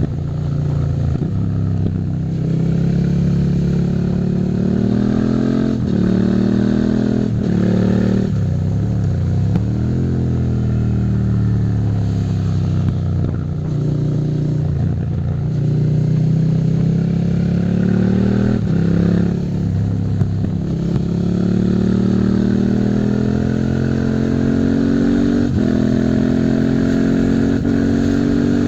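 Suzuki SV650's V-twin engine pulling through the gears. Its pitch climbs, breaks off and climbs again at each shift, with a stretch of slowing down partway through.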